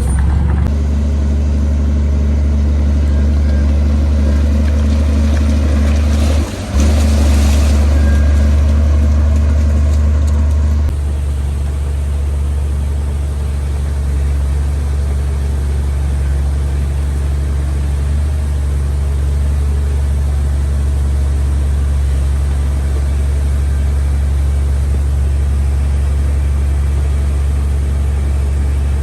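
Heavy earthmoving diesel engine running with a steady, deep drone. There is a brief dip about six and a half seconds in, and the sound drops a little in level from about eleven seconds in.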